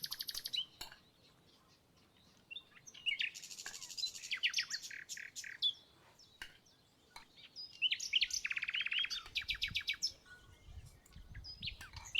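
Songbirds singing: three bursts of quick, high, trilled chirping phrases with short pauses between them.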